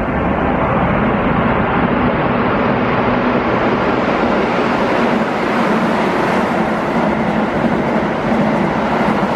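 Keihan 8000 series electric train running through a station at speed: a steady rumble of wheels on rails with a low hum underneath, growing brighter from about three seconds in as the cars pass close by.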